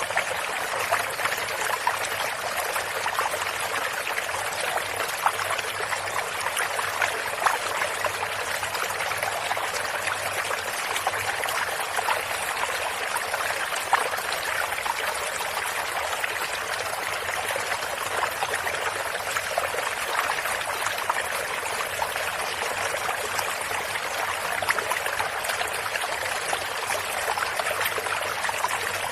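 Running water of a stream, flowing and splashing steadily, with small splashes and trickles over the continuous rush.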